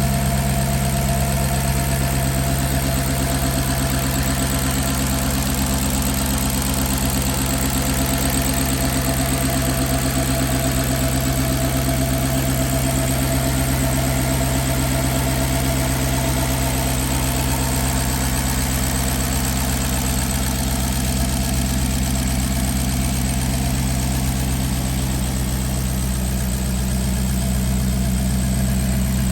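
Engine idling steadily, with an even, unchanging running note.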